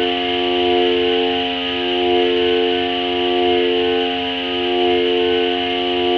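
Ambient drone music from a Korg Volca Modular synthesizer using FM: a steady chord of held tones that swells and fades about once every second and a half, over a band of hiss.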